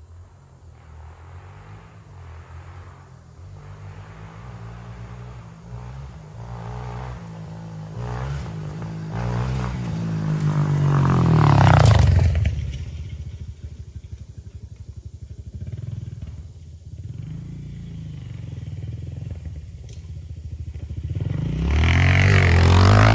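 Honda CRF125F's single-cylinder four-stroke engine revving and pulling through the gears. It grows louder to a peak about twelve seconds in, eases off, then revs up again near the end.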